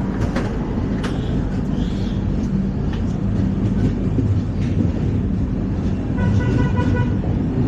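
LHB passenger coach running at speed, heard from inside: a steady low rumble of wheels on rail with a few scattered clicks. About six seconds in, a short pulsing high tone sounds for about a second.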